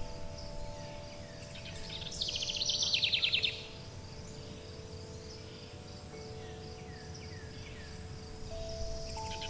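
A songbird sings a fast trill of rapid repeated notes about two seconds in, then a few faint short chirps follow. Underneath, wind chimes ring in long overlapping tones, with a steady high insect-like hum and a low rumble of ambience.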